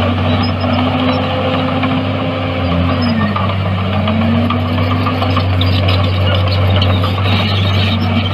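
Heavy earthmoving machine's diesel engine running steadily under work. Its pitch dips briefly about three seconds in and then climbs back.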